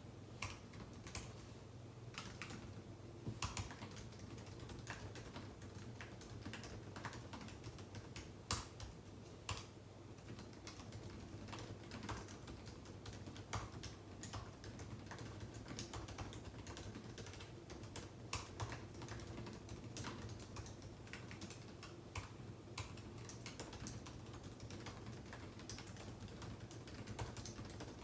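Typing on a computer keyboard: irregular runs of key clicks, with occasional louder keystrokes, over a faint steady hum.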